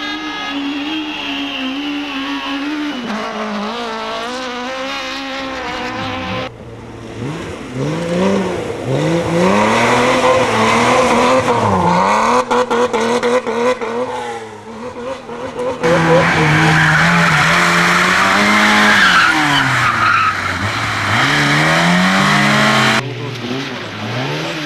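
Rally car engines revving hard, rising and falling through gear changes, with tyres skidding. The sound changes abruptly three times as one car's pass cuts to the next.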